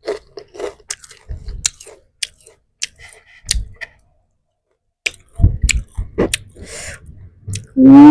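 Close-miked eating: a person biting, crunching and chewing food, with many short crisp crackles and a brief pause in the middle. Near the end a loud, drawn-out hum from a voice begins and runs past the end.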